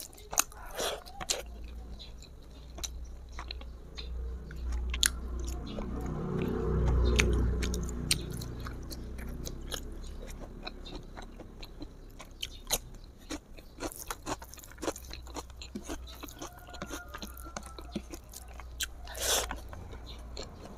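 A person chewing smoked pork and sticky rice close to a clip-on microphone, with many wet mouth clicks and small crunches. There is a louder, lower stretch of chewing about seven seconds in.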